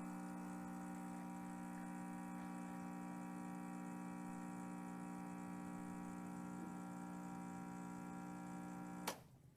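Gaggia Classic espresso machine's vibratory pump running with a steady hum while a shot brews through a pressurized filter basket. It stops sharply about nine seconds in.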